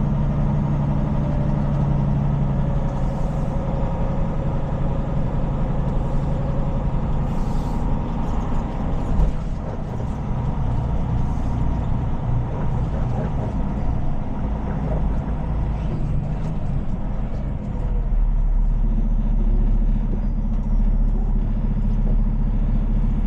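Heavy tow truck's diesel engine running while the loaded truck pulls up and is positioned. A steady note at first, rougher through the middle, then settling to a low steady rumble for the last few seconds.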